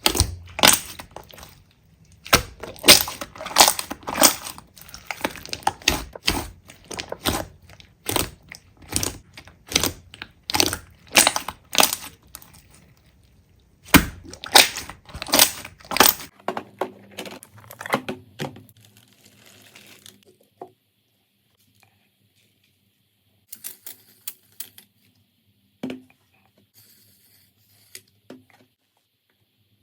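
Slime being squeezed and pressed by hand, giving a fast, dense run of sharp crackles and pops. About sixteen seconds in it drops to a few scattered faint crackles over a low steady hum.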